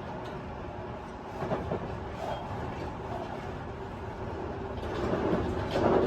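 Tobu 50090 series electric train running, heard from inside a passenger car: a steady rumble with a level hum, growing louder near the end.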